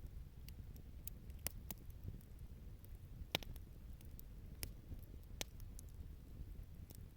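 Wood campfire crackling: scattered sharp pops and ticks at irregular moments, the loudest a little before halfway, over a low steady rumble.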